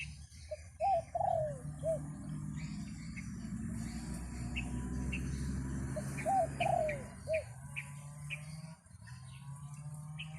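A dove cooing a short phrase of several rounded notes, twice, about five seconds apart, over a heavy low wind rumble on the microphone. Small birds chirp briefly and high throughout.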